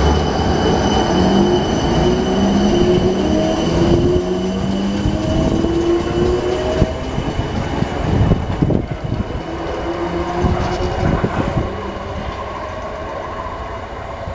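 Class 455 electric multiple unit pulling away: its traction motors whine in a set of tones that climb in pitch in steps as it accelerates. About halfway through the wheels clack over rail joints in a run of sharp clicks, and then the train fades as it leaves.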